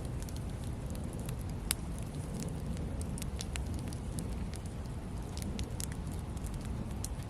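Wood campfire burning: a steady low rush of flames with scattered sharp crackles and pops, one louder pop about two seconds in.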